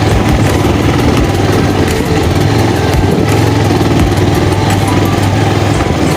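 Motorcycle engine running steadily, a low even hum with no change in pitch.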